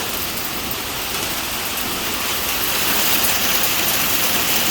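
Heavy pea-sized hail pouring down, a dense, steady hiss and clatter of hailstones that grows a little louder about halfway through.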